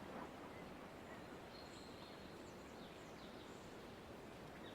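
Faint forest ambience: a soft steady hiss with a few distant high bird chirps around the middle.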